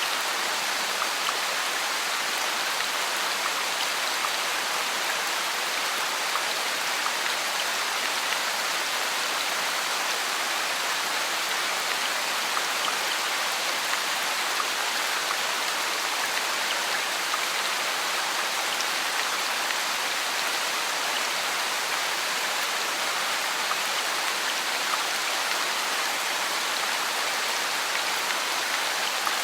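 Steady rain falling, an even hiss with faint patter of individual drops throughout.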